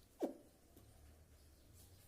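A single short, soft falling note from a pet Indian ringneck parrot about a quarter second in, then near quiet.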